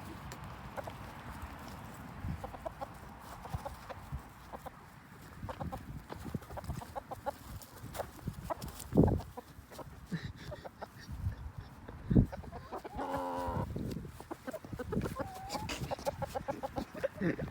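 Chickens clucking among short knocks and scuffs, with one longer, pitched squawk about two-thirds of the way through.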